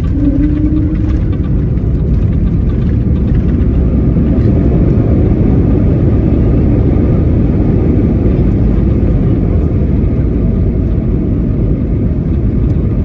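Loud, steady rush of an Airbus A321neo's Pratt & Whitney geared turbofan engines and airflow heard inside the cabin, with faint steady whining tones over it.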